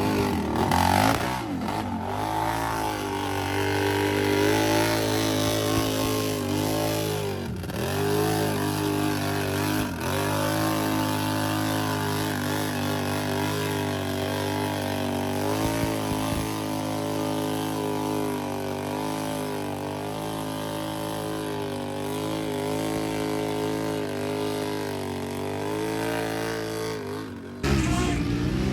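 Off-road mud vehicle engine revving hard under load, its pitch rising and falling, with short breaks about eight and ten seconds in and a sudden change near the end.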